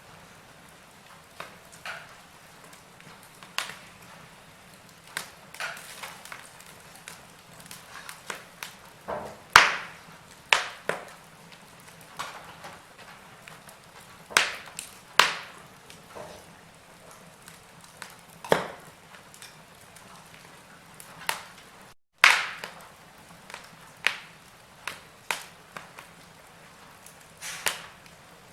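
Wood fire in a fireplace crackling: irregular sharp pops and snaps of varying loudness over a faint steady hiss. The sound cuts out for a split second about three-quarters of the way through.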